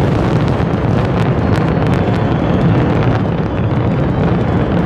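A dense barrage of fireworks going off at once, the bangs running together into a loud, steady din with sharp cracks scattered throughout.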